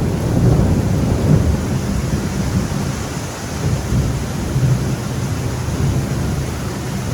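Thunder rumbling over steady rain in a tropical thunderstorm, the low rumble rolling on and slowly easing.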